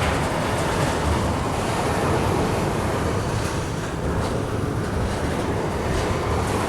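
A Norfolk Southern freight train rolling by, its wheels on the rails making a steady rumble.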